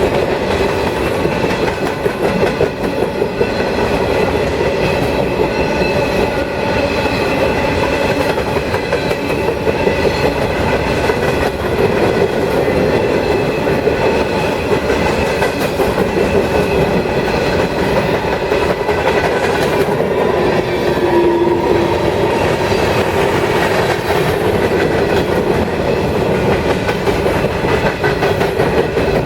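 CSX freight train cars rolling past, a steady loud rumble with the clickety-clack of wheels over rail joints and a faint ringing tone from the wheels and rails.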